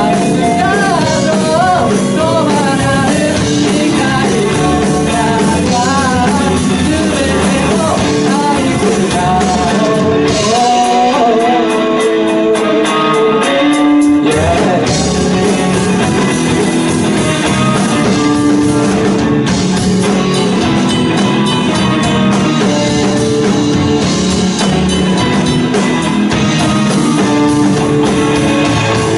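Pop-rock song with a singer, keyboard and drums. The bass and drums drop away about ten seconds in, a quickening drum roll builds back up, and the full band returns at about the halfway point.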